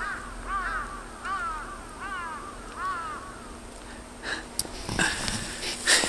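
Birds calling: a run of short arched calls in quick pairs, about two-thirds of a second apart, dying away a little over three seconds in. A few knocks and rustles follow near the end.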